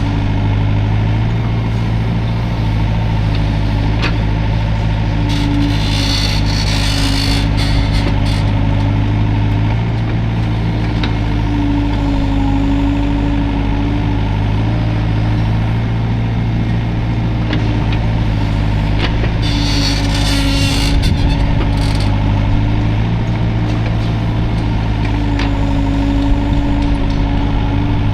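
Hydraulic excavator's diesel engine running steadily under working load, its pitch shifting slightly as the load changes. There are two spells of a hissing, rushing noise, about six seconds in and again about twenty seconds in.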